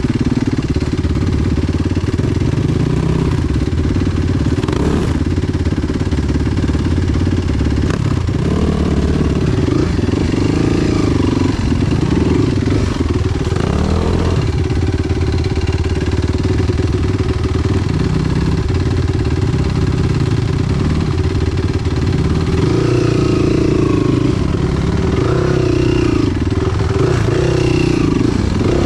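Enduro motorcycle engine running under way, its note rising and falling again and again as the throttle opens and closes.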